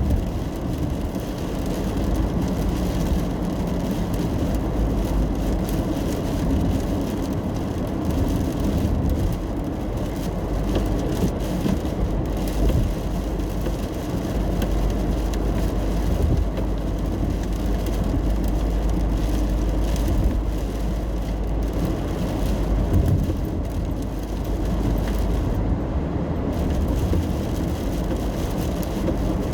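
A car driving on a wet road in the rain, heard from inside the cabin: a steady low rumble of engine and tyres, with light ticking of rain on the car.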